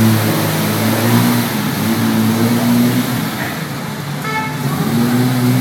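Nissan Silvia S13 drift car's engine being revved: the pitch rises and holds, drops back about three and a half seconds in, then climbs again near the end. A brief high-pitched tone sounds about four seconds in.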